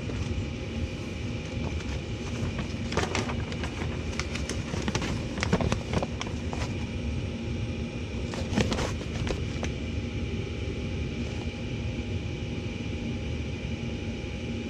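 Gas furnace running with a steady motor hum carrying a few constant tones. Short clicks and rattles come in clusters about three, six and nine seconds in.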